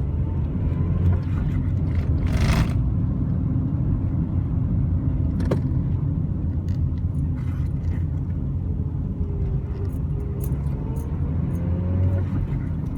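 A 1997 Honda Civic's road noise heard from inside the cabin while driving: a steady low engine and tyre rumble. A faint tone rises in pitch over the last few seconds.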